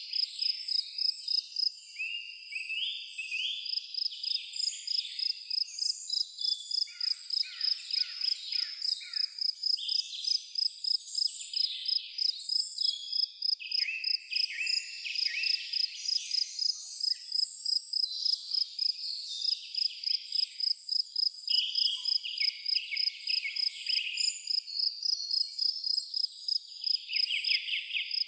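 Forest ambience: an insect chirps in a steady, even high pulse about two to three times a second, while several birds sing varied chirps and trills over it.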